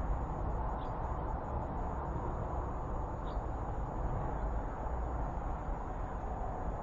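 Steady low outdoor background noise with a faint high steady whine above it, and two faint, brief high chirps about one and three seconds in.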